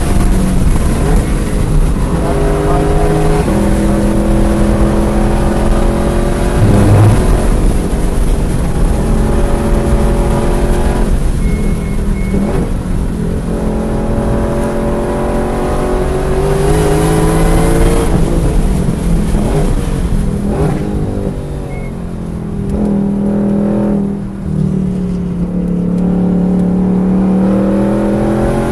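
Car engine at full effort on a racetrack lap, heard from inside the car: the pitch climbs through the gears, drops with each shift and when it lifts off to slow for corners, then rises again as it accelerates near the end. Heavy wind and tyre noise lie under the engine.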